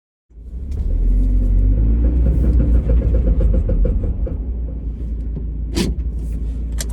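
Mazda Miata's four-cylinder engine and exhaust running as a deep, steady rumble that cuts in suddenly, the revs climbing in the first few seconds.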